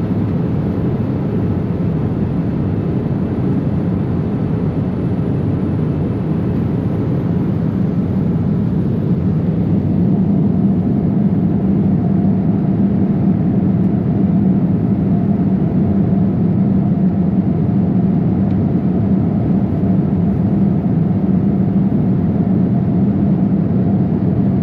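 Steady cabin noise inside a Boeing 787-8 in flight: the even hum of engines and rushing airflow, with no change in pitch.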